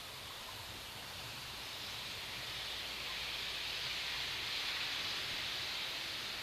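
WWII Kriegslok steam locomotive hissing steam steadily over a low rumble. The hiss swells to a peak about four seconds in, then eases slightly.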